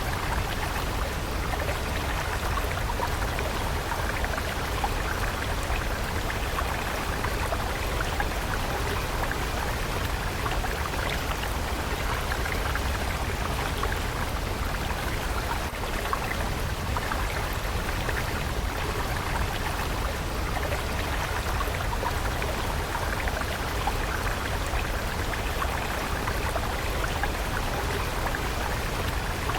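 Water of a stream flowing steadily, an even rush of running water.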